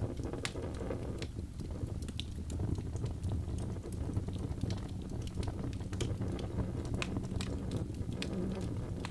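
Wood fire crackling: a steady low rumble with irregular sharp pops and snaps.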